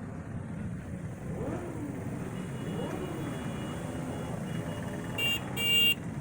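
Steady rumble of passing cars and motorcycles, with a vehicle horn sounding two short toots near the end.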